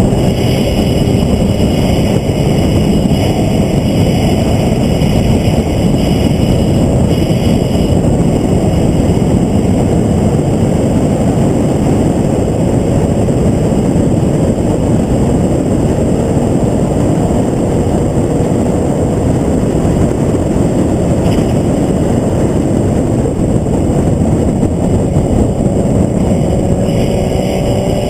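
Onboard sound of a vehicle lapping a race track: loud, steady wind and road rush over the engine. The engine note eases slightly at first and climbs again near the end.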